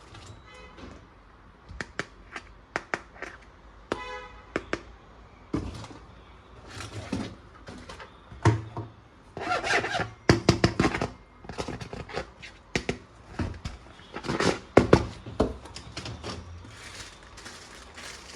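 Plastic toys and their packaging being handled: a string of sharp clicks and knocks, with louder scraping, rustling passages in the middle and a short buzzy tone about four seconds in.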